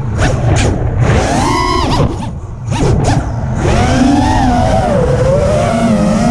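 FPV quadcopter's brushless motors whining, the pitch rising and falling with the throttle and dropping away briefly about two and a half seconds in, over heavy wind rumble on the microphone.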